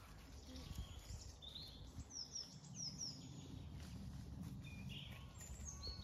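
Faint birdsong: small birds chirping with short, high, falling notes in quick runs of two or three, and a few rising notes, over a low steady rumble.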